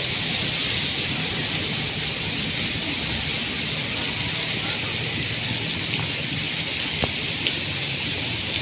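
Heavy rain pouring down steadily, with a few sharp ticks of drops striking close by near the end.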